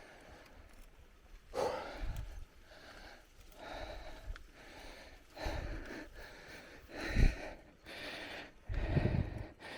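A cyclist breathing hard, one noisy breath about every one and a half to two seconds, with low rumbles on some of them, loudest near the end.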